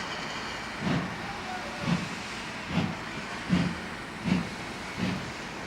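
Ty2 class steam locomotive pulling away, its exhaust chuffing about once a second and gradually quickening, over a steady hiss of steam.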